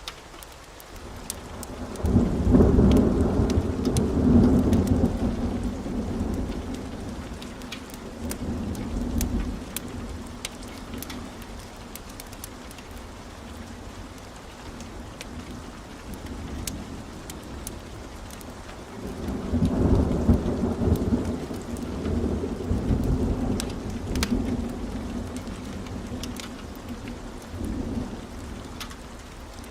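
Heavy rain falling steadily with scattered sharp ticks, broken by long rolls of thunder: one starting about two seconds in and rumbling for several seconds, another about twenty seconds in, and a shorter rumble near the end.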